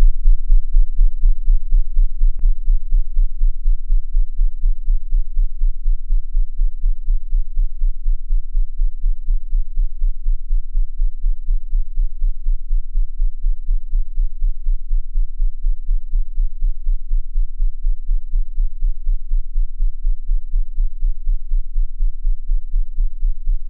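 A loud, deep throbbing pulse repeating several times a second like a fast heartbeat, fading slightly, with one faint click about two and a half seconds in.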